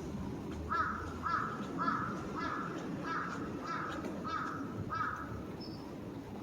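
A crow cawing eight times in a row, about two caws a second, over a low hum of city background noise.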